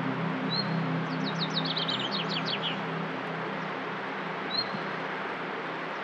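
A songbird sings one phrase of quick descending notes ending in a short flourish, over a steady hiss, with a couple of single short chirps. Soft low ambient music fades out during the first two seconds.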